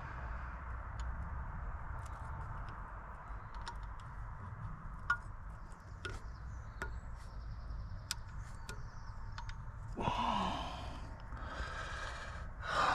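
Scattered small clicks and taps of hand tools and parts being handled during work on a car, over a steady low hum, with one sharper click about five seconds in.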